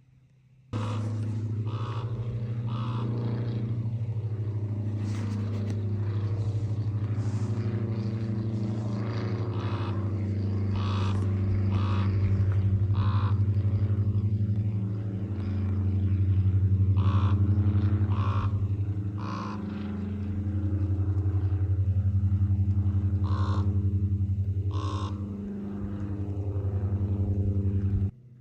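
A motor engine running steadily, its level swelling and dipping a few times, with scattered sharp clicks or crunches over it. It starts suddenly about a second in and cuts off just before the end.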